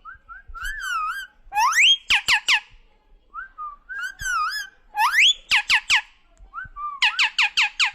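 A pet parrot whistling and calling: short whistled notes, wavering warbles and quick rising sweeps come in clusters, with a dense run of rapid rising calls near the end.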